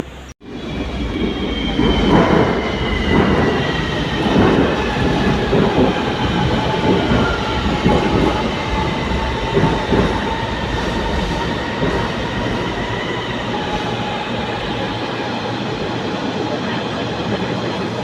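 Kuala Lumpur LRT light-rail train running, heard from inside the carriage: a steady rumble with irregular clacks from the wheels, and an electric motor whine that slowly falls in pitch.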